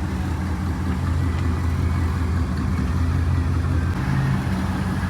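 Car engine idling with a steady, low rumble.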